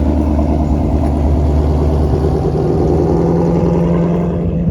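2020 Shelby GT350's 5.2-litre flat-plane-crank V8 running loud and steady while driving, its note moving higher about halfway through.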